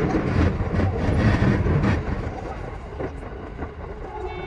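E233 series electric train running, heard from the driver's cab: a steady rumble of wheels on rail with repeated clicks over rail joints, louder for the first two seconds and then easing off. A brief tone sounds near the end.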